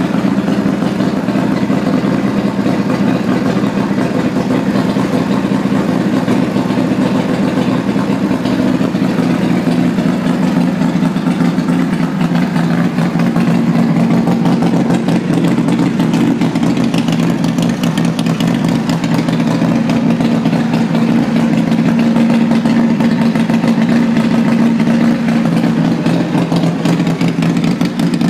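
Ron Simms custom motorcycle's air-cooled V-twin engine idling steadily.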